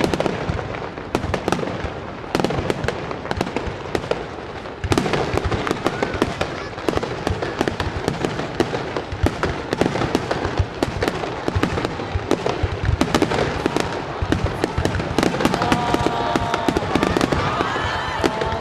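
Aerial fireworks bursting overhead in a finale barrage: a dense, continuous run of bangs and crackles with no pauses, getting louder about five seconds in.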